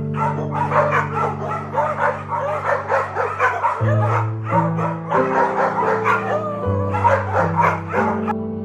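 A dog yipping and barking in a quick run of short calls, over background music with sustained low chords.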